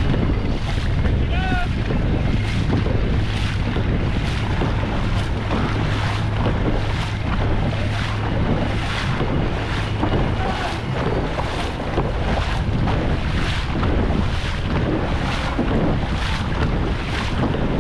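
Dragon boat crew paddling hard, the paddles pulling through the water in an even rhythm of about three strokes every two seconds, with heavy wind noise on the microphone. A low steady hum runs under it for roughly the first half.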